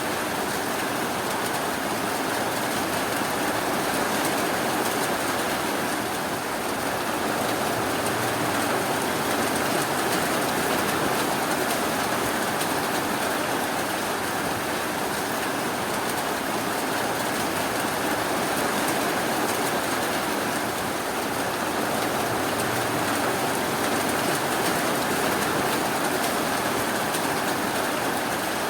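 Steady rainfall, an even, unbroken hiss with no thunder or other sudden sounds.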